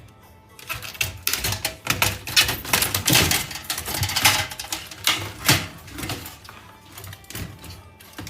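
Rapid clicking, clattering and knocking of parts being handled while an electronics unit is taken apart for scrap. The clatter is dense for the first several seconds, then thins out to occasional knocks.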